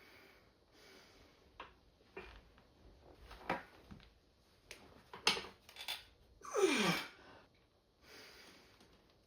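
Scattered light knocks and clicks in a gym, with one louder breathy sound of about half a second, falling in pitch, about two-thirds of the way in.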